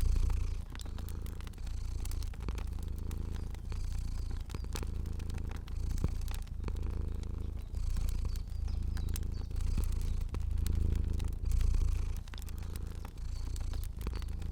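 Domestic cat purring steadily, swelling and easing with each breath about every two seconds, over the light crackle of a fire.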